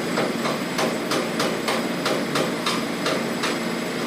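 A hammer striking metal in quick, even blows, about three a second, stopping near the end, over a steady engine hum.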